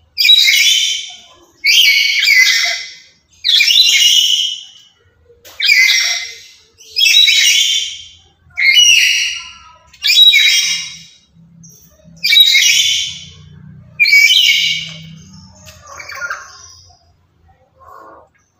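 Black-capped lory calling loudly, about nine calls in a row spaced roughly every one and a half to two seconds, then softer chatter near the end.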